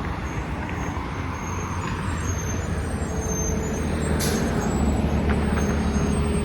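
2013 Gillig BRT 40-foot transit bus approaching, its engine and tyres running with a steady low rumble that slowly grows louder. A steady whine comes in about three seconds in, and a short hiss of air sounds about a second later.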